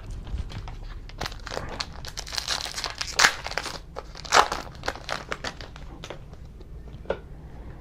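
Plastic wrapper of a Donruss football trading-card pack crinkling as it is handled and torn open, in a run of crackles that is loudest a little after three seconds in and again about a second later.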